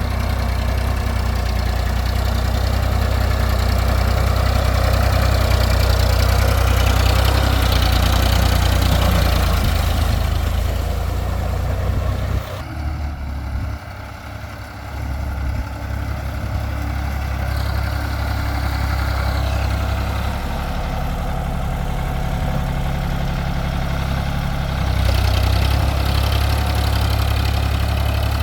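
Sonalika tractor's diesel engine running steadily while ploughing. Its sound drops for a couple of seconds about halfway through, then picks up again.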